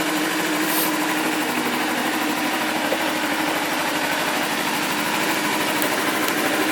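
2012 Kawasaki Ninja 250 (EX250R) parallel-twin engine idling steadily.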